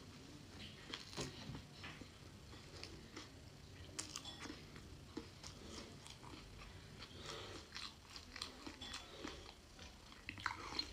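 A person eating noodles close to the microphone: chewing, with soft wet smacks and small clicks at an irregular pace, and a brief cluster of louder sounds near the end.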